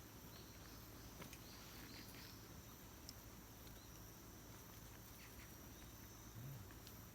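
Near-silent outdoor ambience: faint, steady high chirring of crickets, with a few soft ticks.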